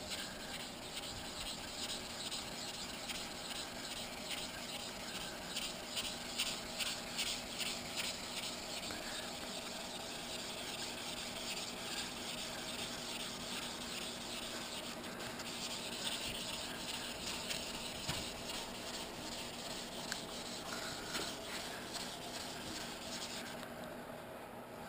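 600-grit wet sandpaper on a sanding block rubbing back and forth over primer on a motorcycle gas tank. The rasping strokes come about two or three a second, then run together into a steadier scrub and fade near the end.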